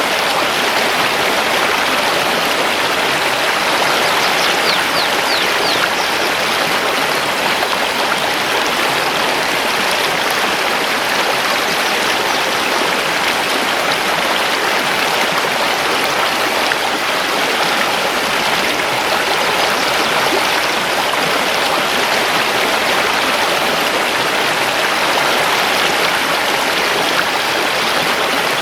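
Mountain river rushing steadily over stones, a dense, even water noise. A few brief, high bird chirps come through about five seconds in.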